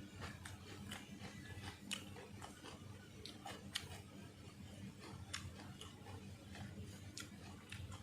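A person chewing food close to the microphone, with irregular wet mouth clicks and smacks scattered through.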